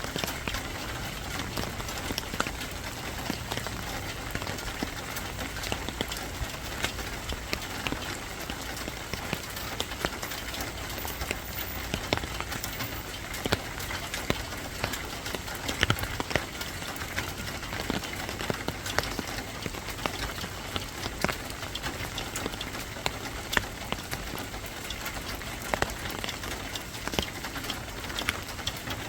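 Steady rain falling, with scattered sharper drops striking close by.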